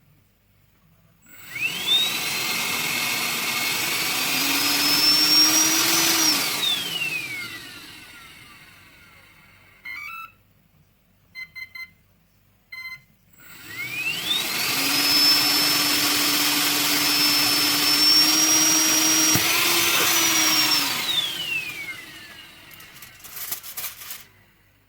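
Cordless stick vacuum with a retrofitted brushless motor run twice: each time a high whine rises quickly as it spins up, holds steady over the rush of air, then falls away as the motor spins down. A few short beeps sound between the two runs.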